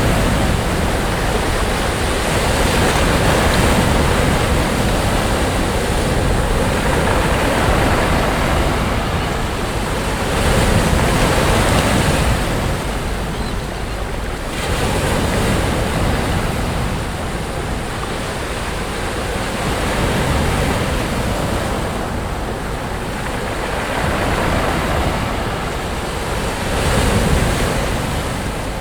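Sea waves breaking on a beach: continuous surf that swells and eases every few seconds as each wave comes in, with some wind on the microphone.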